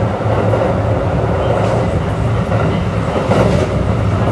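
Inside a Kintetsu 3200 series electric train under way, heard at the car end: a steady rumble of wheels on rail with a low hum, the air conditioning running, and two faint clacks from the track.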